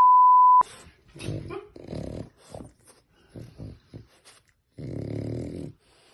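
A short steady electronic beep lasting about half a second, then a dog growling and grumbling in a run of short bursts, with a longer growl about five seconds in.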